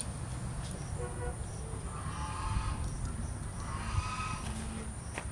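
Birds calling in the background, two short bouts of calls a second or so apart, over a low steady rumble.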